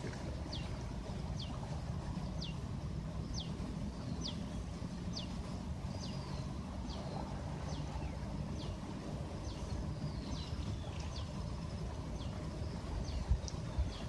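A songbird repeating a short, high, downward-sliding whistle over and over, a little faster than one a second, over a steady low rumble of wind and water, with a brief low thump near the end.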